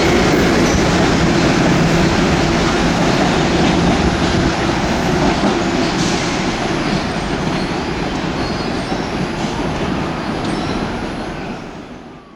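A train passing close by: a loud, steady rush of wheels on rail, with a whine in the first few seconds. The sound fades out sharply near the end.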